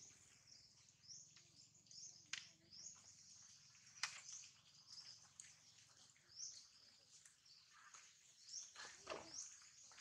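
Faint, high chirps of a small bird, repeating about one or two a second, with a couple of sharp clicks about two and four seconds in.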